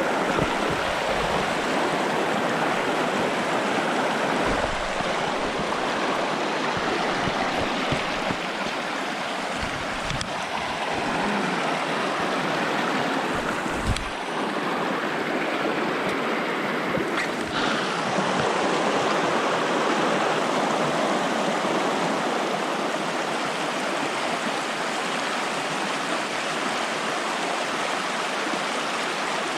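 Brook water rushing steadily, with a few dull low thumps about 4, 8, 10 and 14 seconds in.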